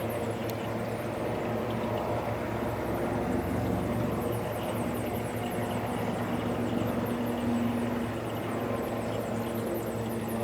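Mitsubishi Fuso Super Great's 6R20 inline-six diesel engine idling steadily.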